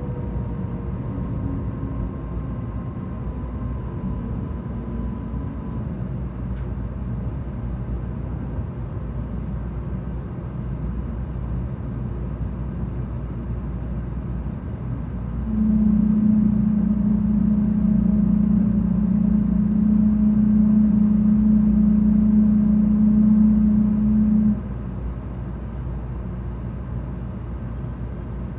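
Interior running noise of a 700-series Shinkansen train: a steady low rumble, with a faint whine that fades out in the first few seconds. In the second half a louder steady low hum sets in abruptly, holds for about nine seconds and cuts off suddenly.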